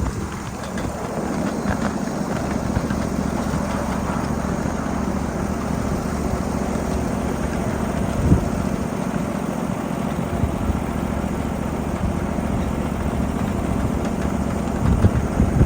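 7.5-inch gauge ride-on miniature freight train running steadily along the track, with a low steady hum. There is a single louder knock about eight seconds in and a few knocks near the end.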